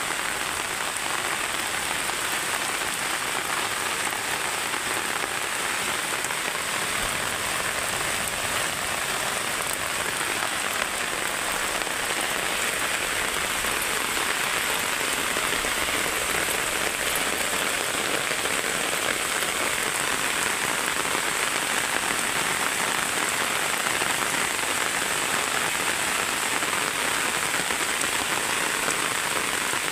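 Heavy rain pouring steadily onto a wet asphalt road and roadside vegetation, a dense, even hiss of drops splashing into standing water.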